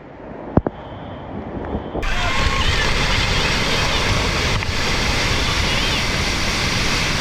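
A sharp knock about half a second in, then from about two seconds a loud, steady roar of rushing floodwater and wind buffeting the microphone, with faint voices under it.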